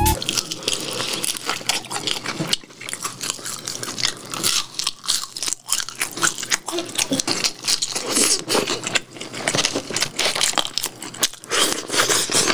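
Close-miked biting and chewing of Kyochon Sinhwa spicy fried chicken: a run of irregular, crisp crunches as the pieces are bitten and chewed.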